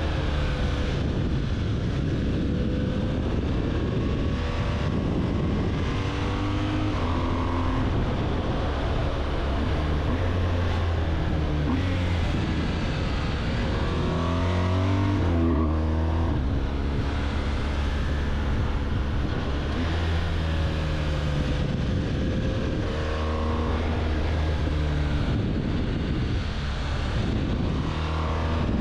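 BMW R1200GS boxer-twin engine running under way, its pitch climbing and dropping again several times as it accelerates and changes gear.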